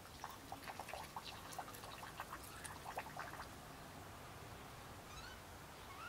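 A bird calling in a rapid chatter of short, sharp notes for about three seconds, then a short rising call near the end.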